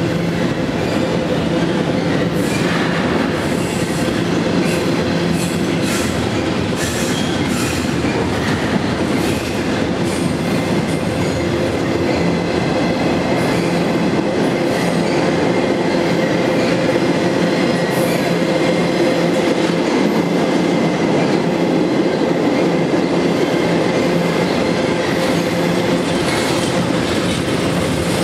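Double-stack intermodal freight cars rolling past: a steady, loud rumble and clatter of steel wheels on rail, with clicks in the first few seconds and a faint steady high whine from the wheels.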